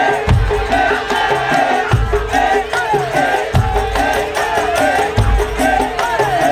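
Madurese tong-tong music: a troupe beating wooden tong-tong slit drums with rattles and other percussion. A deep drum beat falls about every second and a half under a wavering, gliding melody line.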